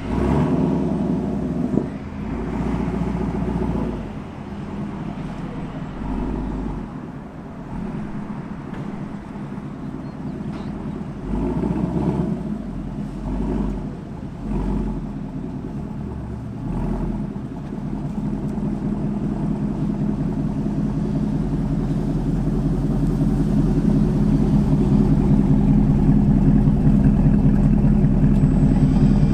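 2020 Camaro SS's 6.2-litre V8 running through Borla S-Type axle-back mufflers. There are several short throttle blips in the first half, then a steady, deep running sound that grows gradually louder.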